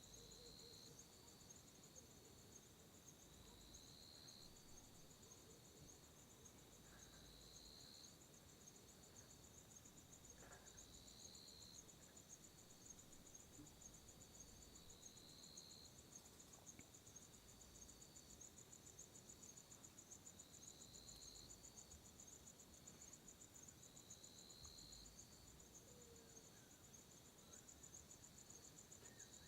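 Faint night chorus of crickets: a steady, fast-pulsing high trill, with a second, lower chirp repeating about every three to four seconds.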